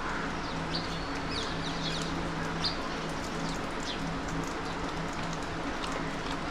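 Birds calling in short, high chirps, several in the first three seconds and a few more later, over a steady low hum and background noise.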